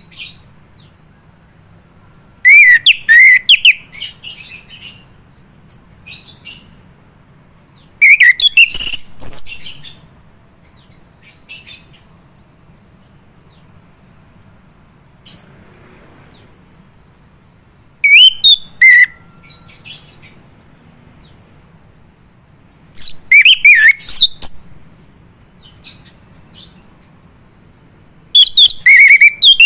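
Male chestnut-capped thrush singing in loud bursts of quick, varied whistled notes. There are five phrases of one to two seconds, about five seconds apart, with a low faint hum underneath.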